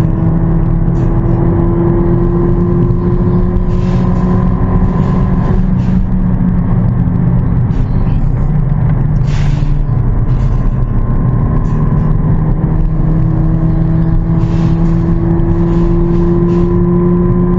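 Car engine driving through an automatic transmission: the engine note climbs slowly, drops suddenly about five seconds in as the gearbox shifts up, holds steady, then climbs again near the end. Short bursts of hiss come and go over it.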